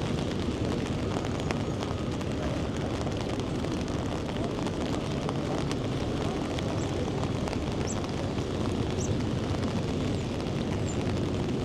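Steady low rumble of outdoor city or engine noise, with faint background voices.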